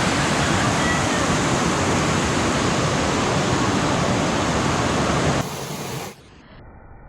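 Waterfall water pouring steadily, a dense even rush of noise that drops away abruptly about six seconds in, leaving only a faint, muffled hiss.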